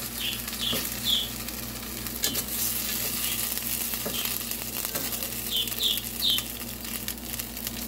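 Pizza slice sizzling as it fries in a pan, with a few scrapes and taps of a slotted spatula against the pan. A pet bird chirps in short groups of three, near the start and again about six seconds in.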